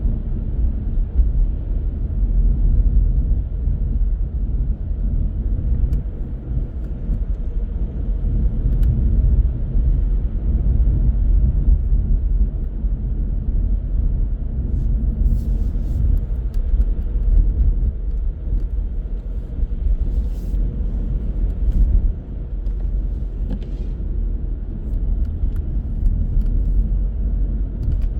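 Car driving on city roads: a steady low rumble of tyres and engine, with a few faint clicks about halfway through.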